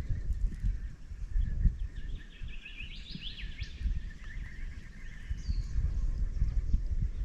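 Wind buffeting the microphone with a rough, uneven rumble, while small birds chirp in the background, with a cluster of quick chirps in the middle.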